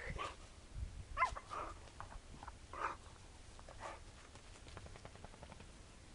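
A dog giving a few short yips or barks in the first four seconds, then quieter.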